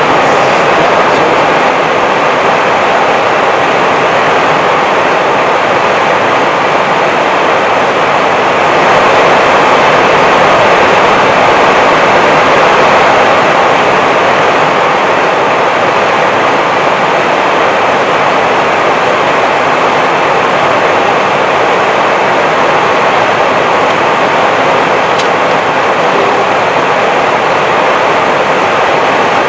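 Steady rushing noise inside the flight deck of an Airbus A320 in flight, the airflow and engine noise heard in the cockpit, holding even throughout.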